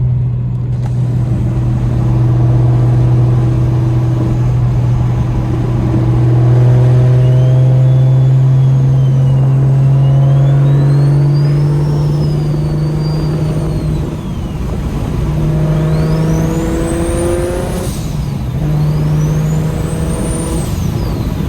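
BMW N54 inline-six with a DocRace single-turbo kit and a straight-piped VRSF dual exhaust, heard from inside the cabin while driving: a steady, raspy exhaust note that climbs slowly as the car accelerates. A high turbo whistle rises and falls over it, sweeps steeply up twice near the end, and breaks off briefly between the two sweeps.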